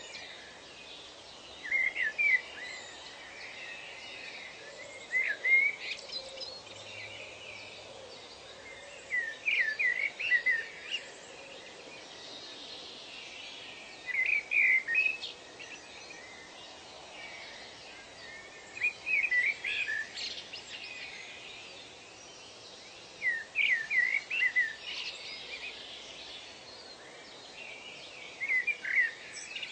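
A bird repeatedly sings a short phrase of three to five quick chirping notes, about every four to five seconds, over a steady background hiss of natural ambience.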